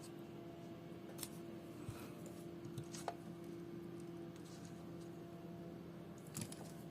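A few sharp clicks and taps of small hand tools working on the parts of a Samsung Gear S3 Classic smartwatch during a teardown, over a steady hum.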